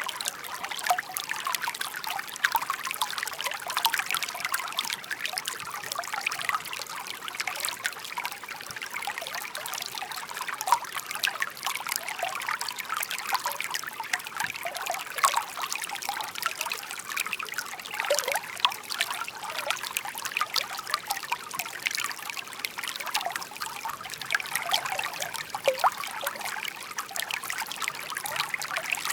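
A shallow babbling brook: water trickling and gurgling over stones in a continuous burble, full of small splashes and bubbling notes.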